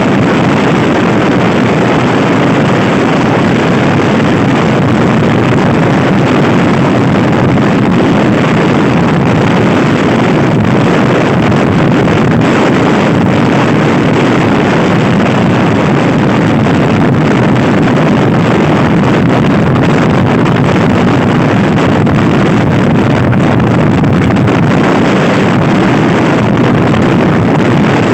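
Loud, steady wind rushing over the microphone of a moving Honda Scoopy-i scooter ridden at speed, with the scooter's running noise underneath.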